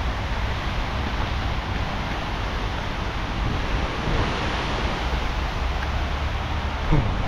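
Steady roar of freeway traffic close by, with some wind on the microphone.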